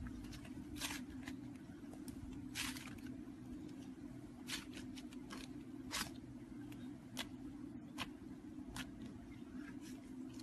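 Hands working slime, giving irregular short squishing crackles and pops, over a steady low hum.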